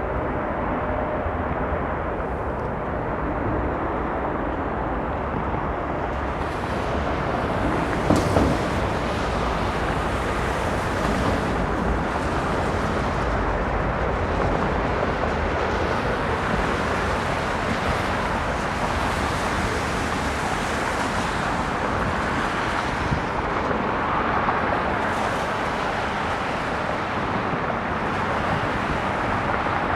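Steady jet noise from a Bombardier CRJ-900's twin rear-mounted GE CF34 turbofans as it comes in to land, mixed with wind and traffic hiss; the noise grows a little brighter about six seconds in, with a single short knock soon after.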